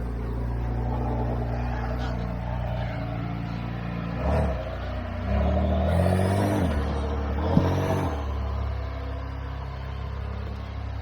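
4x4 off-road vehicle's engine running, with short bursts of revs about four seconds in and again between roughly five and eight seconds. A single sharp knock sounds during the second burst.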